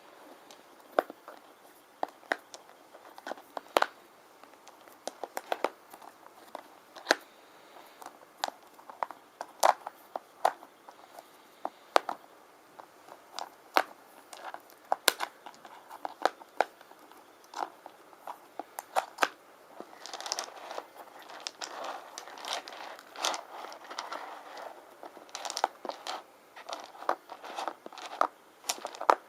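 Small stone rune pieces clicking and tapping against each other and under fingernails, in scattered single clicks. About twenty seconds in it turns into a denser clatter and scratching, as of the runes being shuffled together.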